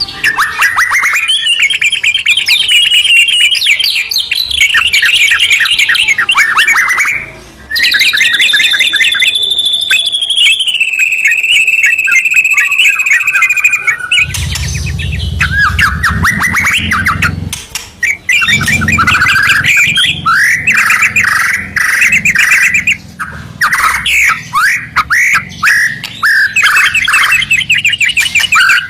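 White-rumped shama and yellow-vented bulbul singing loudly in a continuous duet: fast runs of sharp notes and trills, with a long whistled phrase sliding slowly down in pitch partway through. A low rumble sits under the song in the second half.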